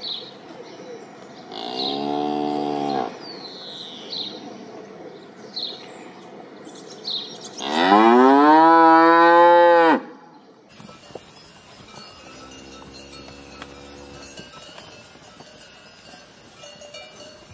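Cows mooing: a short moo about two seconds in, then a long, loud moo that rises in pitch at its start, and later a quieter, lower moo.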